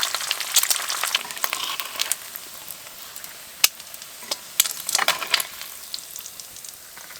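Food frying in a pan: a steady sizzle with crackling pops. It is louder for about the first two seconds, then settles lower, with a few sharp pops near the middle.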